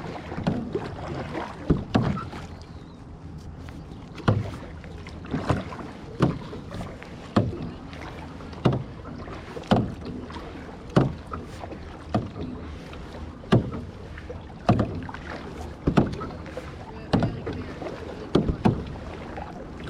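Kayak paddle strokes, one roughly every second and a bit, each a short sharp sound of the paddle working the water, over a steady low background.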